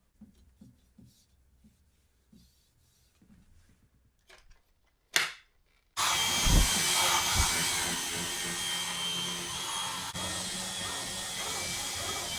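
Faint handling clicks, then a short sharp knock. About six seconds in, a vacuum cleaner motor starts suddenly and runs steadily.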